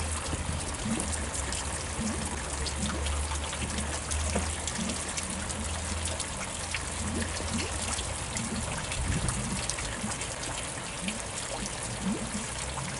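Water trickling and running steadily, with a low steady hum underneath.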